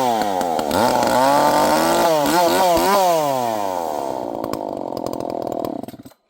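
Two-stroke gas chainsaw running at high revs, its engine pitch rising and falling several times, then dropping away and cutting off suddenly near the end.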